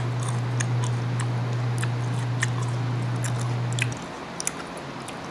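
Close-up chewing of unripe green mango, many small crisp clicks from the mouth. A steady low hum runs underneath and cuts off suddenly about four seconds in.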